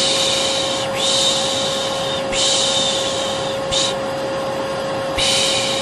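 Vacuum cleaner running with a steady hum, under a repeated 'shh' shushing: four hissy shushes about a second each in quick succession, a short one, then a pause before another begins near the end. It is a lulling sound for settling a baby to sleep.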